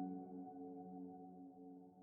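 Soft, slow piano music: a chord struck just before rings on and slowly fades, with no new notes played.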